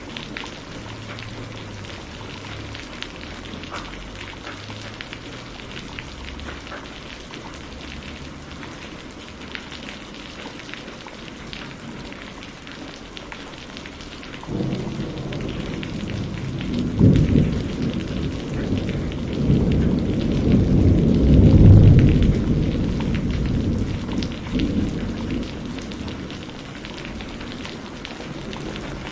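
Rain falling steadily, with the patter of many drops. About halfway through, a long low rumble of thunder builds, peaks and fades away over about ten seconds.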